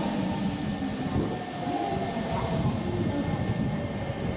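Hankyu commuter train running into the station, a steady rumble of wheels and motors, with a reverberant platform announcement over it.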